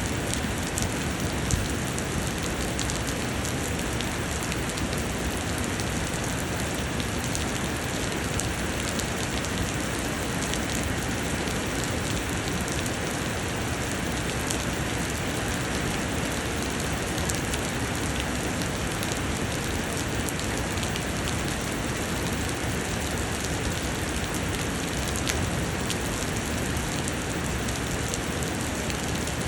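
Heavy summer rain falling steadily, a dense, even hiss of drops with fine pattering.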